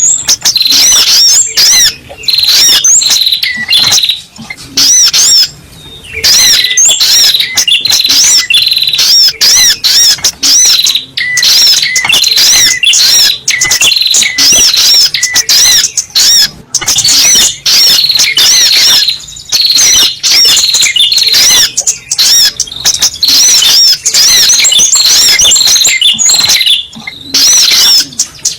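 Little spiderhunter (sogok ontong) calling in dense, rapid runs of high, sharp chirps, broken by a few short pauses, as on a looped lure recording.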